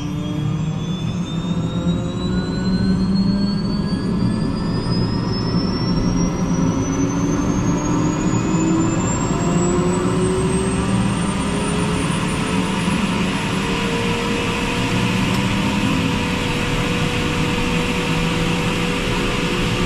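Eurocopter EC120 helicopter's Arrius turboshaft engine and rotor spooling up during start: a turbine whine rising steadily in pitch for about fifteen seconds, then settling to a steady run.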